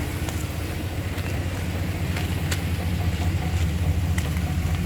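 A motor vehicle's engine idling, a steady low hum, with a few faint clicks over it.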